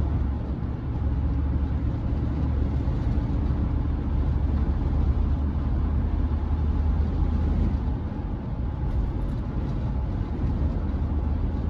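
Steady low rumble of a Chevrolet C10 pickup's engine and tyres on the highway, heard from inside the cab.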